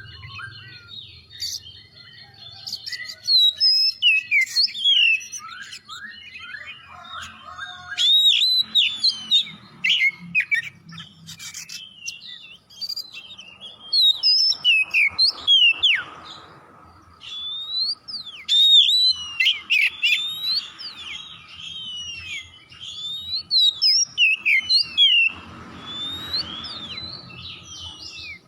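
Oriental magpie-robin (kacer) in full, vigorous song: loud phrases of rapid, varied whistles and chirps come every few seconds, with quieter stretches of softer notes between.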